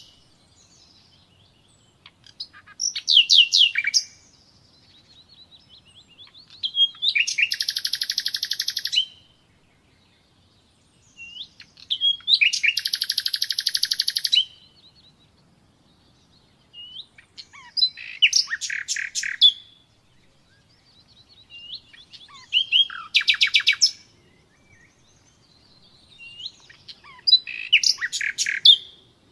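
Common nightingale singing: six loud phrases, each a couple of seconds long and separated by short pauses. Several phrases are fast rolling trills of rapidly repeated notes, and soft, thin whistles fall in the gaps between them.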